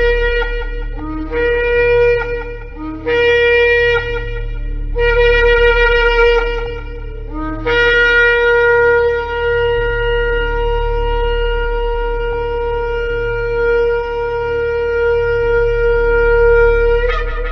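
Shofar blown in a run of short blasts, each one starting on a low note and jumping up to a higher one. Then comes one long held blast of about nine seconds that bends upward in pitch as it ends.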